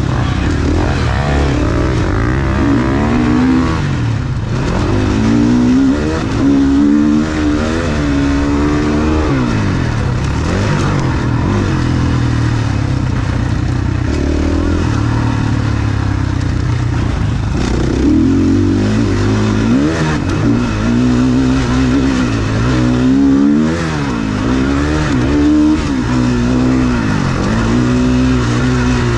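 Motocross dirt bike engine at race pace, heard on board the rider's own bike, its revs climbing and dropping again and again through shifts and corners.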